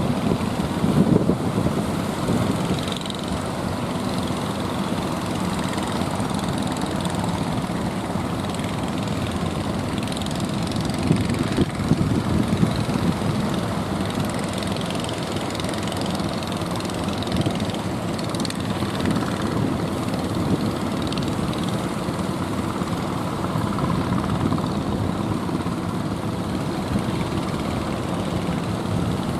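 Motor boat's engine running steadily, a constant drone with a noisy rush over it.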